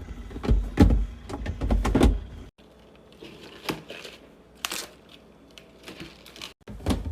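Containers and packaged items being handled and set down while restocking a fridge: a run of knocks and clatters, the loudest in the first two seconds, with a brief rustle about four and a half seconds in.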